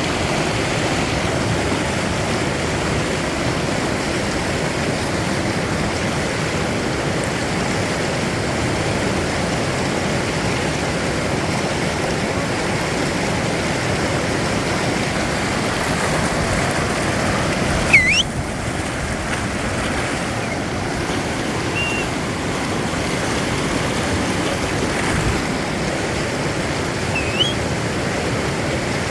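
Steady rushing of river rapids, a constant full wash of white water. A few short high rising whistles cut through, the loudest about 18 seconds in.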